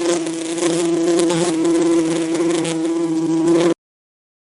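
A bee buzzing in a steady drone that stops suddenly near the end.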